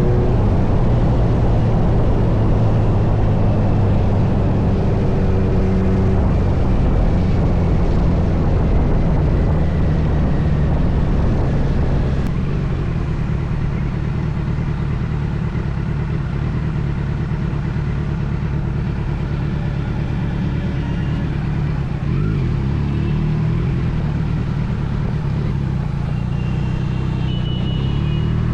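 Kawasaki Z900's inline-four engine running at a steady speed under wind rush. The wind noise eases about twelve seconds in, and the engine revs up again near the end.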